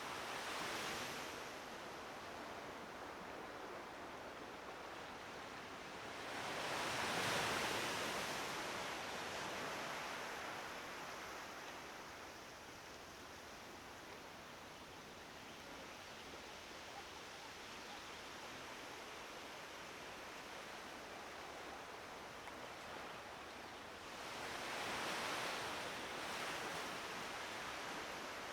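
Waves washing on the shore of the Kakhovka Reservoir: a steady hiss of water that swells up three times, most strongly about a quarter of the way in, and again shortly after the start and near the end.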